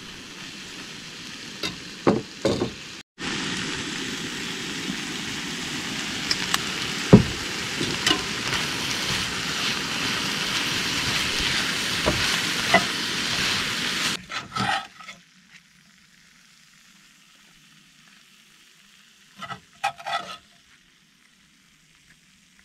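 Chicken and vegetables sizzling steadily in a cast-iron skillet on a camp stove, with a metal spatula scraping and clacking against the pan as the food is stirred. About two-thirds of the way through the sizzle stops, leaving a few scrapes of the spatula.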